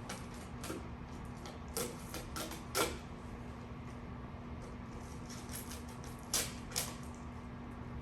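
A few short clicks at a computer, from a mouse or keyboard, in two small clusters about two and six seconds in, over a steady low hum.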